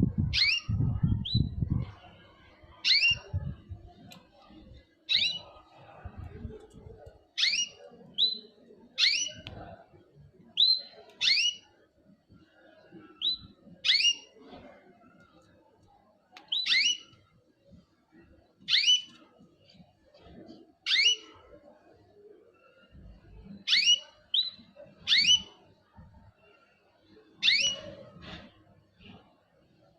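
Small pet birds calling: short, sharp notes that sweep downward in pitch, one or two at a time every second or two. A few low thumps sound in the first two seconds.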